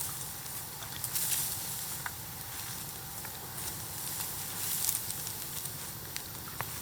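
Bamboo bonfire burning: a steady crackle with scattered sharp pops and two brief surges of hissing, about a second in and again near five seconds.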